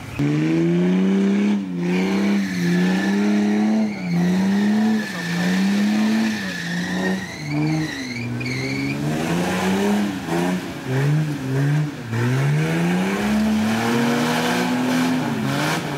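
Nissan Patrol 4x4's engine revved up and down over and over as the vehicle churns through deep mud with its wheels spinning.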